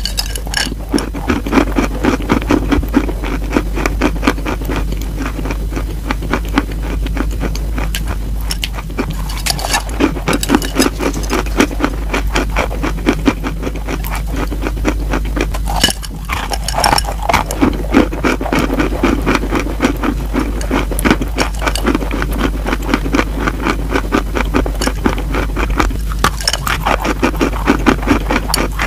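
Close-miked crunching and chewing of a crumbly slab of chalk: dense, crackly, gritty clicks that come in clusters as bites are taken and ground, with a steady low hum underneath.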